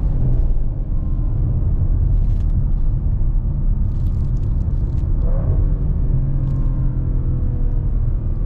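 Audi RS6 C8's twin-turbo V8 through an Akrapovic exhaust, a deep, loud rumble with the engine note gliding up and down, changing pitch about five seconds in.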